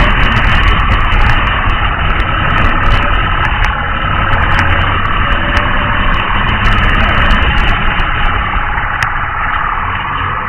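A motor vehicle's engine running with road noise, loud and steady.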